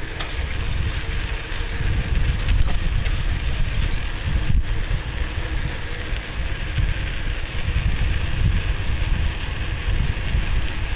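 Wind rushing over the microphone of a camera carried on a bicycle coasting fast downhill, a loud steady low rumble.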